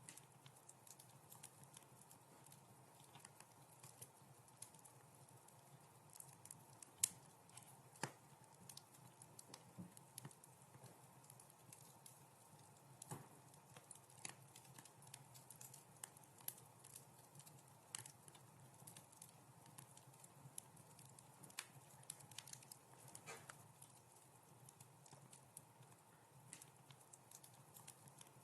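Wood fire crackling: faint, irregular pops and snaps over a soft hiss, with a louder pop about seven seconds in and another about a second later.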